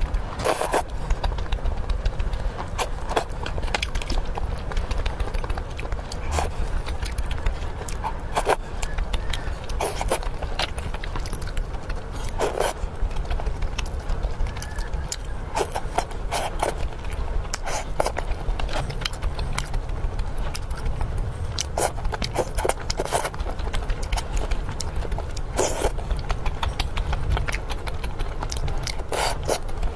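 Close-miked eating sounds: irregular clicks, smacks and scrapes of fast chewing and of utensils against the food container, over a steady low rumble.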